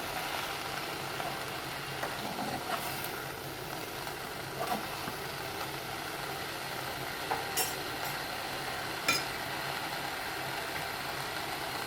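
Mixed vegetables sizzling steadily in a frying pan, with a few light clicks scattered through.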